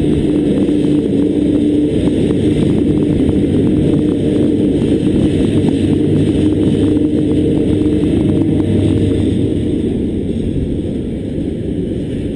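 TasRail TR class diesel locomotives passing close by under power: a steady engine drone with rapid clicking and clattering of wheels over the rails. The engine drone eases about ten seconds in as the container wagons roll past.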